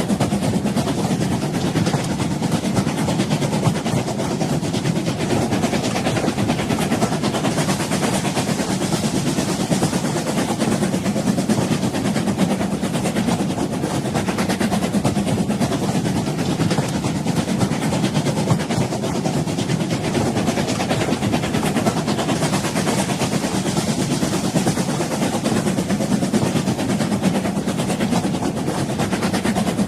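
Train running on the rails, a steady even rumble that holds unchanged throughout.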